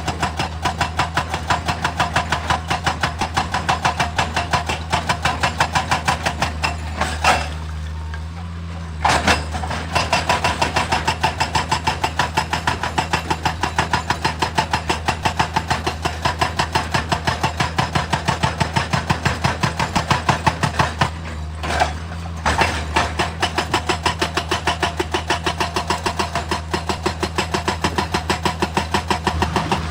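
Excavator's diesel engine running under a hydraulic rock breaker hammering at an even rate of about three blows a second. The hammering pauses briefly twice.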